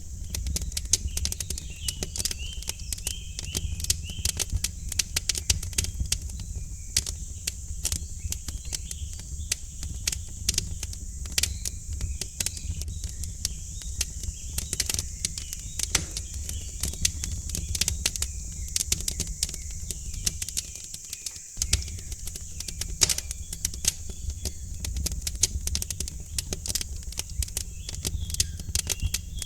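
Wood fire crackling in a fireplace: rapid, irregular pops and snaps over a low, steady rumble, with small birds chirping faintly in the background.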